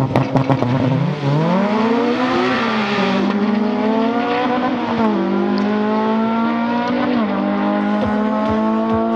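Two sports cars, one a Porsche 911 GT3, launching hard off a drag-strip start line and accelerating through the gears. The engine note climbs steadily, then drops at each upshift, roughly every two seconds.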